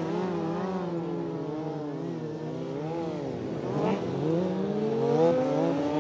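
Motorcycle engines revving, several at once, their pitch rising and falling over a steady low hum, with one climbing sharply about four seconds in.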